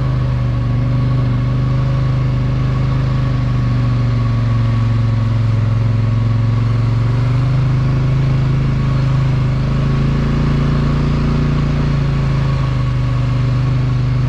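ATV engine running steadily while being ridden at an even cruising pace, its pitch drifting only slightly.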